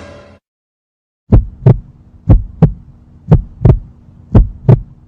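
Heartbeat sound effect: paired lub-dub thumps repeating about once a second, starting a little over a second in, over a faint low hum. A short noisy sound fades out at the very start.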